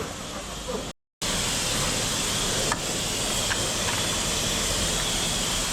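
Steady, loud hiss of a pressure washer jet spraying water. It starts right after a brief dropout in the sound about a second in.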